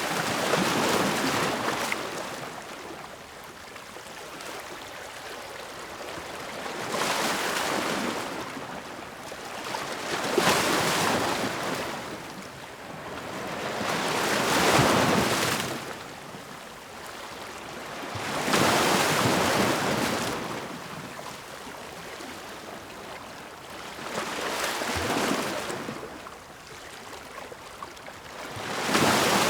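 Ocean waves breaking and washing on a shore, each wave swelling up and fading away, about six in a row every few seconds.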